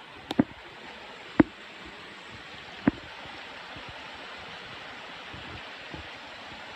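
Steady rushing of flowing water, with a few sharp clicks, two right at the start and single ones about a second and a half apart after that.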